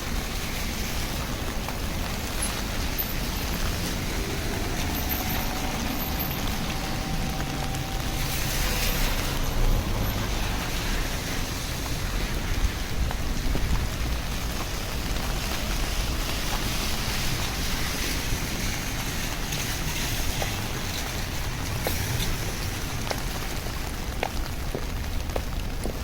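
Steady rain falling, an even wash of noise, with a louder rushing swell about eight to ten seconds in.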